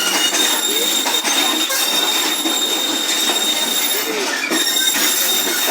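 Train wheels squealing against the rails on a curve: a steady high-pitched squeal over the noise of the moving train.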